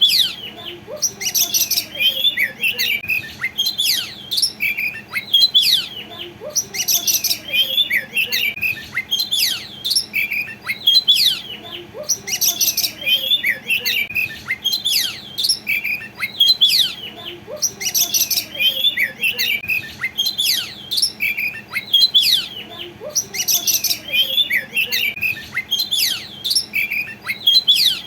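Oriental magpie-robin (kacer) singing nonstop in full song: fast, varied runs of chirps and down-slurred whistles mixed with scratchy high notes about once a second.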